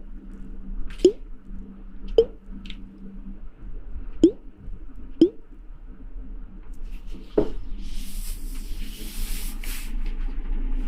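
Water drops plopping one at a time, about five in all at irregular gaps, followed near the end by a hiss of spray lasting about two seconds.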